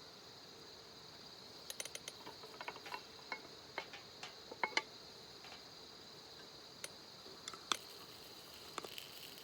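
Faint steady high-pitched insect chorus, with scattered small clicks and ticks starting about two seconds in.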